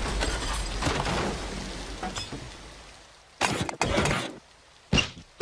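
Cartoon sound effects: a crashing, shattering noise that fades away over about three seconds, then a few short, sharp knocks and clatters.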